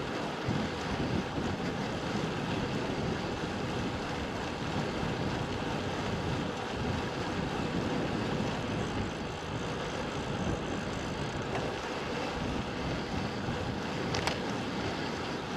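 Wind buffeting the microphone over a steady outdoor rush of noise, with one brief tick about 14 seconds in.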